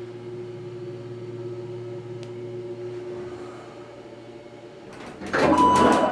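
Dover Impulse hydraulic elevator running up, a steady hum that dies away about three and a half seconds in as the car levels at the floor. About five seconds in the doors open with a loud clatter and a bell rings with a steady tone, which this elevator sounds as soon as the door opens.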